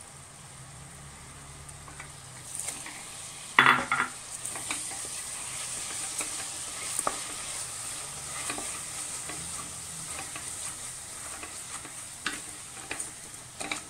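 Onions, green chilli and crushed ginger sizzling in oil in a pressure cooker pot as they are stirred with a wooden spatula, which scrapes and taps against the pot. The loudest scrape comes about three and a half seconds in.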